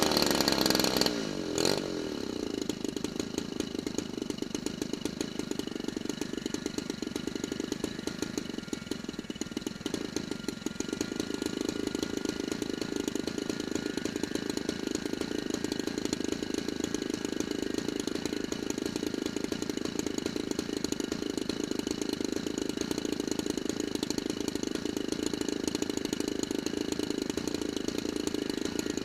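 Model aircraft's 35cc DLE two-stroke single-cylinder gasoline engine coming off high revs about a second in, then running steadily at a lower throttle with a buzzing drone.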